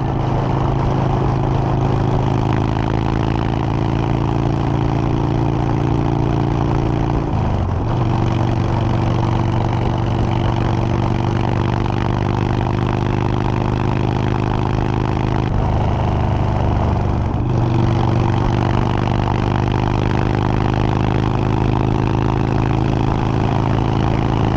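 Motorcycle engine running at a steady road speed, with wind and road noise over it. The engine pitch dips and picks up again about a third of the way in, and briefly once or twice more later.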